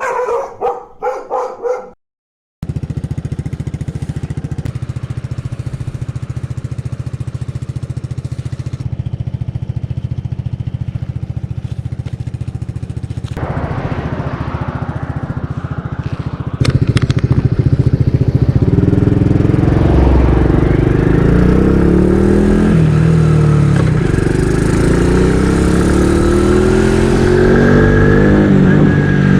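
A vehicle engine running steadily. It gets louder about two-thirds of the way through, and its pitch then rises and falls repeatedly as the revs change.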